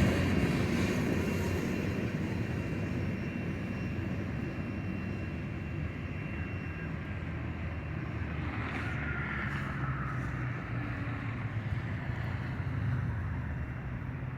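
Freight train cars rolling past with a steady low rumble that fades over the first few seconds and then holds at a lower level.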